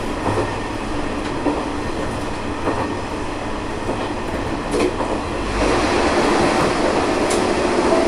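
Diesel railcar running along the track, heard from the cab: a steady running rumble with the wheels clicking over rail joints about once every second and a bit. About five and a half seconds in it grows louder, with a steadier hum coming in.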